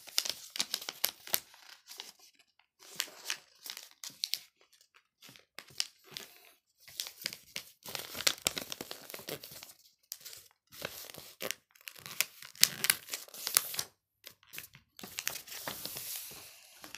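A sheet of paper being folded and creased by hand, crinkling and crackling in irregular bursts with short pauses between folds.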